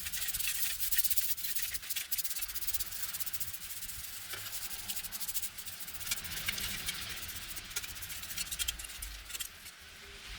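Continuous dry, scratchy rubbing made of many small rapid scrapes, easing briefly near the end.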